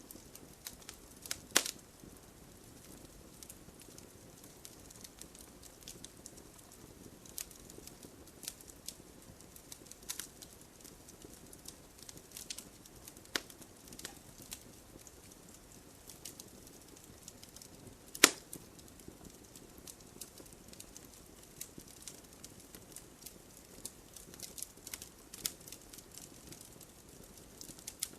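Open wood fire crackling: a faint low rush of burning with irregular sharp snaps and pops, the loudest about a second and a half in and again about eighteen seconds in.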